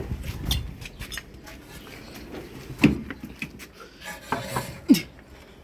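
Scattered metal clanks and knocks from a jack and tools being worked under the rear suspension, with two louder ringing clanks about three and five seconds in.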